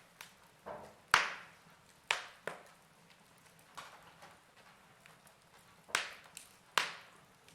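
Wood fire in a fireplace crackling: a faint steady hiss with scattered sharp pops, the loudest about a second in.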